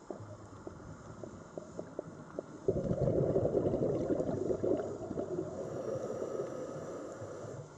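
Sea water sound: faint scattered clicks, then about three seconds in a sudden rush of low, bubbling water noise that slowly fades away.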